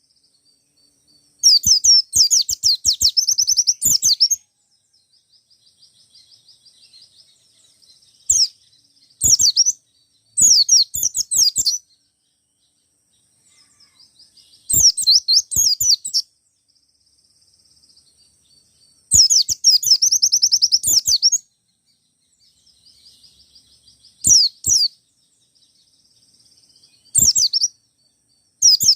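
White-eye (pleci) singing in loud bursts of rapid, high twittering trills a few seconds apart, with softer twittering between the bursts.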